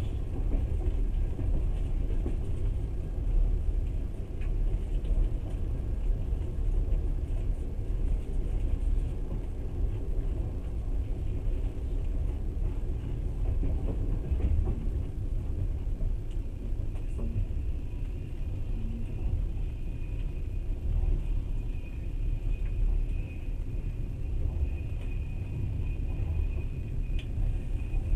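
Passenger train running at speed, heard from inside the carriage: a steady low rumble of wheels on the track. A thin, steady high whine joins in a little past halfway.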